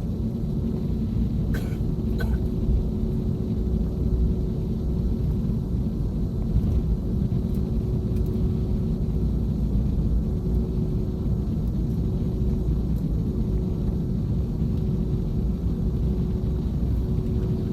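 Cabin noise of an Airbus A321neo as it moves off for departure: a steady deep rumble with a constant drone from its Pratt & Whitney geared turbofan engines. A couple of light clicks come from the cabin about a second and a half and two seconds in.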